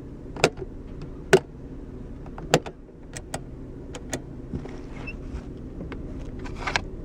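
The 1994 Mitsubishi 3000GT's 3.0-litre V6 idling steadily, heard from inside the cabin, with about half a dozen sharp clicks of interior controls being worked in the first four seconds.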